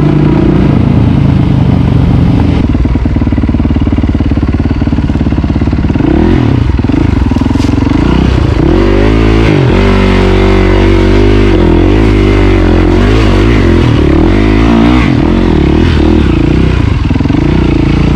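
Motorcycle engine running under way, loud throughout, its pitch rising and falling repeatedly with throttle changes through the middle stretch.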